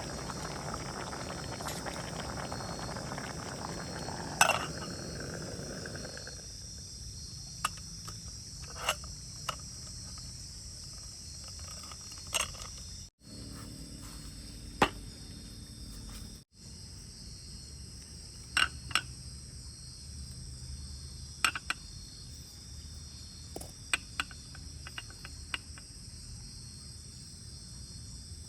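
Crickets chirring in a steady high chorus, with scattered sharp knocks and clicks over it. A rough noise fills the first six seconds.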